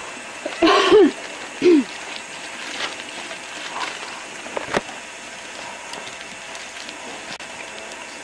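A person's brief wordless vocal sounds about a second in, a short cry and then a falling tone. After that, a steady faint hiss with a few light clicks.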